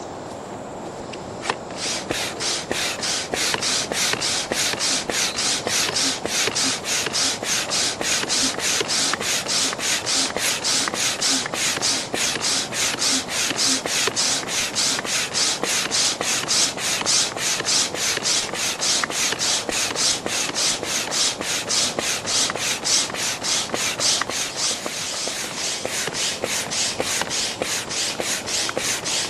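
Manual air pump inflating the outer chamber of an inflatable raft: a steady run of rhythmic air whooshes, about two strokes a second. The pumping starts with a click about a second and a half in.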